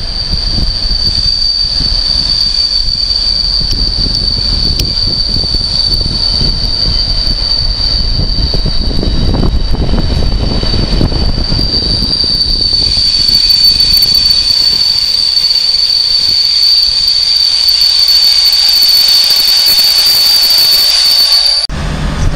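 Container freight train hauled by a Class 66 diesel locomotive passing, with a loud, steady, high-pitched wheel squeal over the rumble of the wagons. About halfway through the rumble fades and a hiss rises under the squeal, which stops abruptly near the end.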